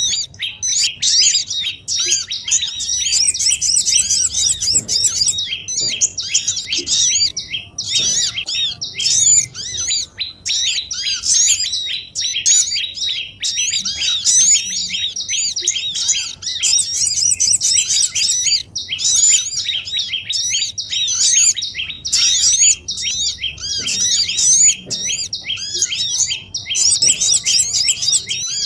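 Bird-trapping lure recording of small songbirds: a dense, unbroken chorus of rapid high chirps and twittering calls, many notes a second overlapping one another.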